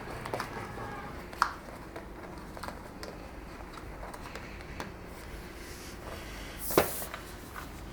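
Cleaning the dust off a window insect screen: soft rubbing and handling sounds with scattered small clicks, and two sharper knocks, one about a second and a half in and a louder one near the end.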